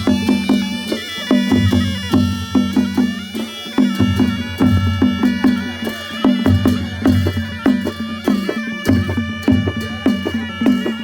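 Nepali panche baja band playing: a reedy wind melody held over a steady, repeating rhythm of drum strokes and sharp cymbal hits.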